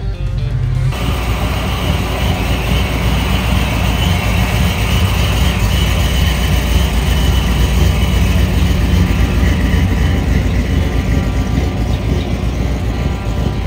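Loud, steady car engine rumble, taking over from music about a second in.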